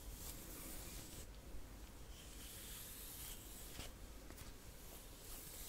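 Soft, close-up rubbing strokes against the microphone, an ASMR trigger. A few long hissy strokes come one after another, each lasting about a second.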